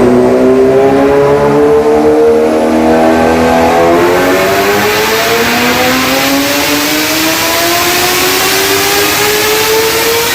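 Kawasaki ZX-6R's inline-four engine with an Austin Racing exhaust, pulling on a dynamometer: the engine note climbs steadily and without a break as the revs rise through the run.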